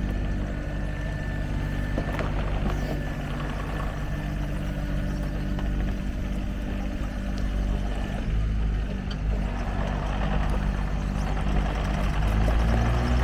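Sany SY26U mini excavator's diesel engine running steadily. Near the end its note shifts and it gets louder, as the engine picks up load or revs.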